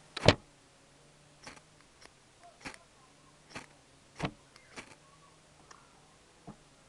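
Fire steel (ferro rod) being struck into a jute twine tinder nest: a series of short sharp scrapes, about seven at irregular intervals roughly a second apart, the first the loudest. The tinder has not yet caught.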